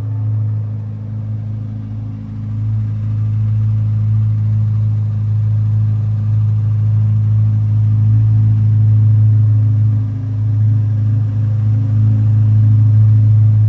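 2023 Corvette C8 Z06's 5.5-litre flat-plane-crank V8 idling steadily, a deep even hum with no revs.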